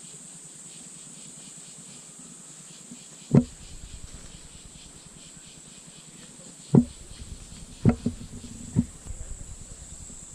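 Steady high-pitched insect drone with a faint pulsing chirr underneath, broken by four dull thumps: one about a third of the way in and three close together near the end.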